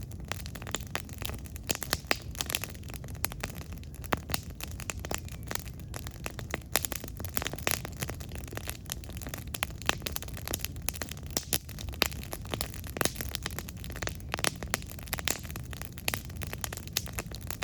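Campfire burning with a steady low rush and many irregular sharp crackles and pops of burning wood.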